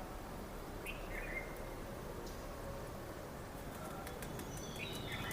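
Faint outdoor background noise with a few short bird chirps.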